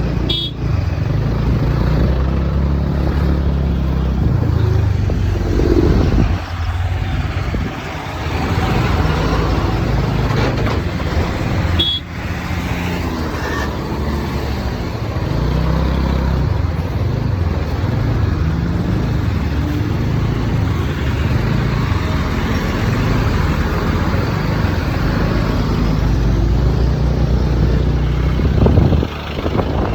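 Riding noise on a TVS Ntorq scooter: wind buffeting the microphone over the running scooter and road traffic, a steady loud rumble with brief dips near the middle and end.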